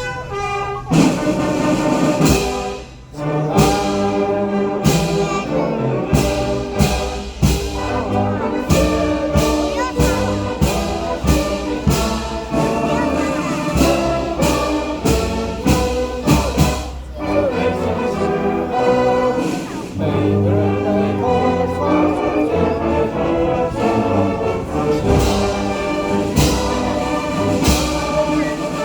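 Military band playing, with brass over strong, regular drum beats.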